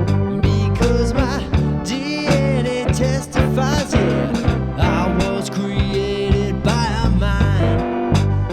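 Blues-rock band music: a lead line of bending, sliding notes over a steady drum beat and bass.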